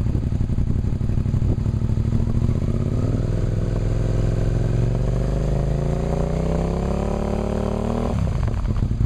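2003 Suzuki SV650's 90-degree V-twin running through a high-mount Holeshot aftermarket exhaust. It idles, then is revved up slowly from about three seconds in, and drops back sharply near the end as the throttle is let off.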